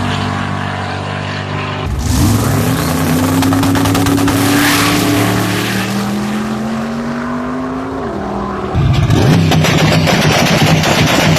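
Twin-turbo 7.3-litre LS V8 in a modified Opel Kadett, running under load. The engine note climbs slowly for about six seconds, then falls away, and a louder, harsher engine sound takes over near the end.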